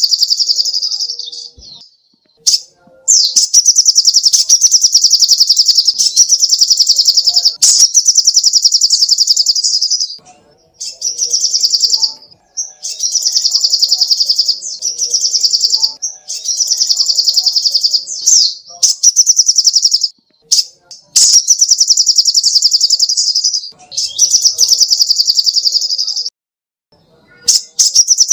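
Sogok ontong (little spiderhunter) singing: long, very rapid high-pitched trills of chattering notes, repeated about a dozen times with brief pauses between runs.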